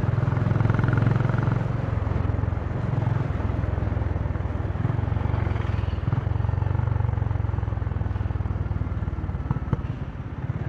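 Honda CB350 motorcycle exhaust note heard from the rider's seat, the engine pulling steadily through traffic. The note eases off briefly a couple of times and drops away near the end as the throttle is closed.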